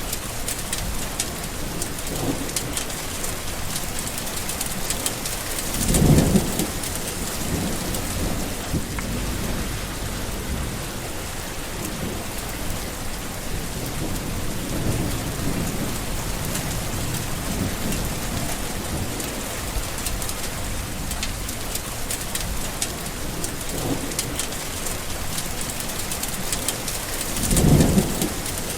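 Steady rain falling, with thunder rumbling through it; two louder rolls of thunder come about six seconds in and near the end.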